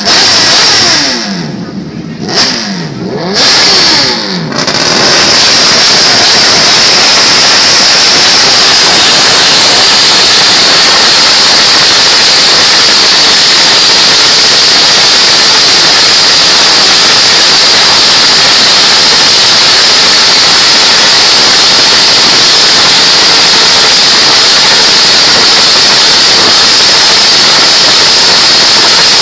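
Motorcycle engine revving up and down in sweeps for the first four or five seconds. Then a loud, steady hiss like static takes over and runs on unchanged.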